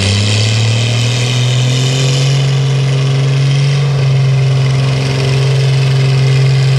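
Light limited super stock pulling tractor's engine at full throttle, its pitch edging up briefly and then holding steady at high revs under the load of a pull.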